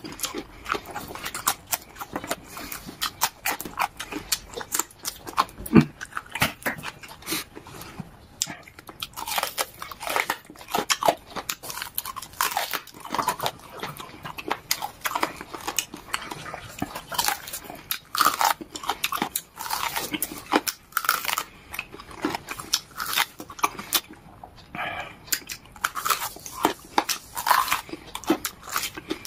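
A person gnawing meat off a bone and chewing close to the microphone, with many irregular clicks of lips and teeth.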